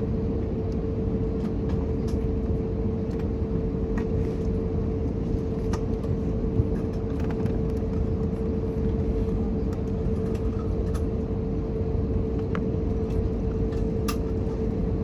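Airbus A321neo cabin noise with the engines running: a steady low rumble under a constant hum, with occasional light clicks and rattles.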